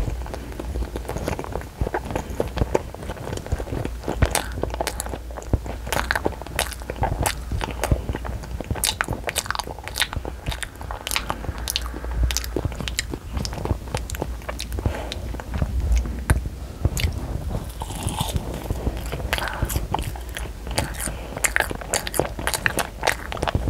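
A child chewing and biting a soft jelly candy close to a clip-on microphone: a steady run of many small sharp mouth clicks.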